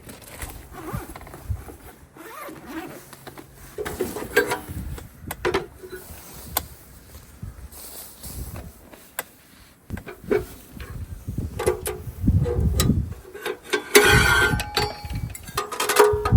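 A series of irregular knocks, clicks and rustles, like objects being handled, growing louder near the end.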